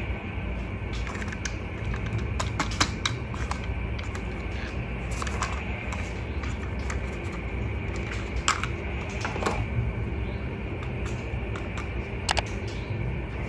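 Irregular light clicks and taps of hard plastic being handled, over a steady low background hum.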